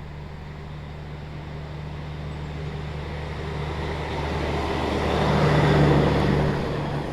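Heavy diesel machinery at a rock quarry: a steady low engine hum that swells into a louder rumble, peaking about six seconds in, then eases off.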